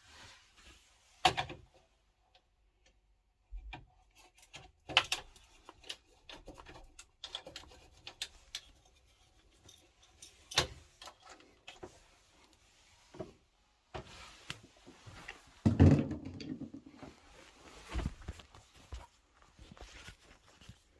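Irregular clicks, knocks and rubbing of hands and tools at work on parts, with a few sharp clicks and a heavier thump with a short low rumble about two-thirds of the way through.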